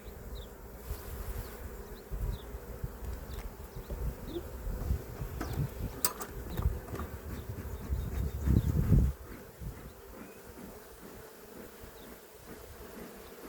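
Honeybees buzzing around an open hive, a steady hum. Low rumbling runs underneath and stops about nine seconds in, with a sharp click about six seconds in.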